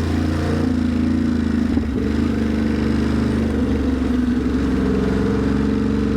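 Ducati Monster's V-twin engine running steadily at low revs, with a brief shift in pitch about two seconds in.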